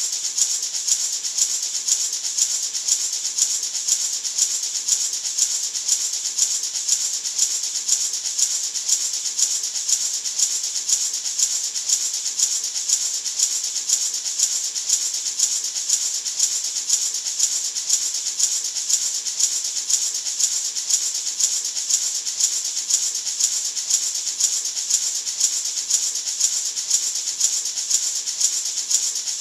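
Gourd maraca shaken in a steady, even rhythm, a few shakes a second, giving a bright, hissing rattle that goes on without change.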